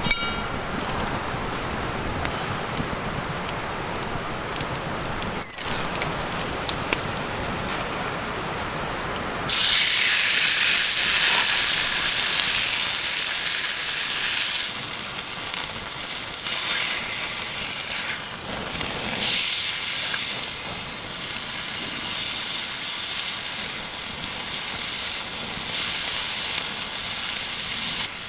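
Fire crackling with scattered small pops and one sharp snap about five seconds in. About nine seconds in, a loud, high sizzling hiss starts suddenly and carries on, rising and falling in strength.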